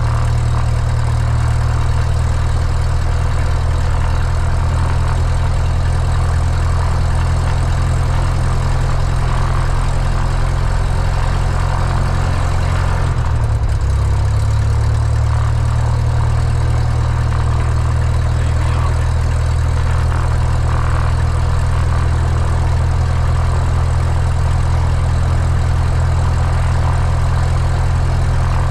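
Cessna 172's piston engine idling steadily on the ground with the fuel selector on the left tank, with a brief shift in pitch about halfway through.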